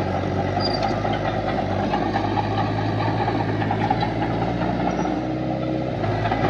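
Heavy diesel engine of an earthmoving machine running steadily, its low note shifting briefly about five seconds in.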